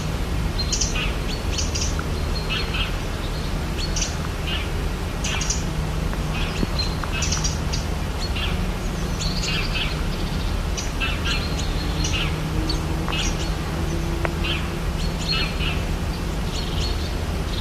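Rainforest birds chirping and calling, many short calls overlapping one after another, over a steady low background rumble.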